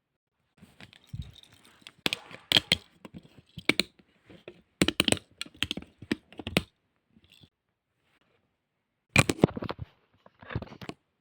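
Irregular clicks, knocks and rustling handling noises in bursts, with a pause of about two seconds partway through.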